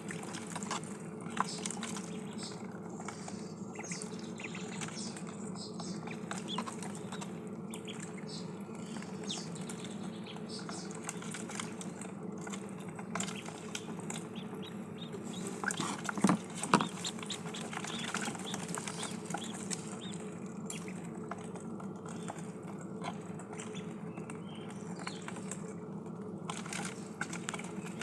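Ducklings dabbling and pecking at water and feed: a continual patter of small wet clicks and splashes over a steady low hum, with a couple of louder short sounds about sixteen seconds in.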